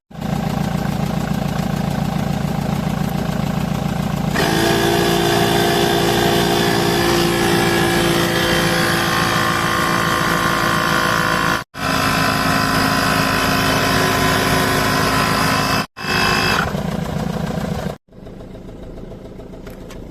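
Oasser portable electric air compressor running with a loud, steady mechanical drone. About four seconds in, its tone changes and steady whining tones join the rattle. The sound breaks off abruptly twice and stops about two seconds before the end, leaving a quieter steady hum.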